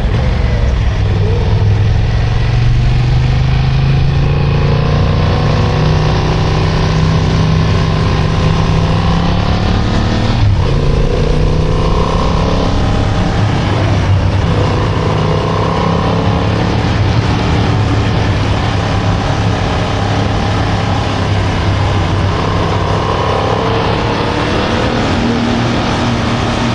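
Motorcycle engine running under way, its pitch rising and falling again and again as the throttle opens and closes through the bends, over a steady rush of wind noise.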